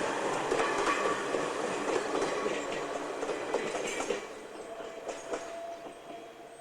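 Ichibata Electric Railway electric train running on the rails, its wheels clicking over rail joints, then fading away as it moves off; the sound drops off about four seconds in.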